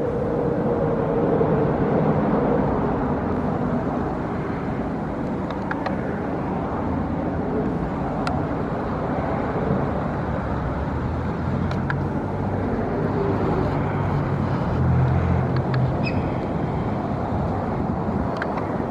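Steady rumble of road traffic, engines humming and swelling as vehicles pass, with a few faint short bird calls near the end.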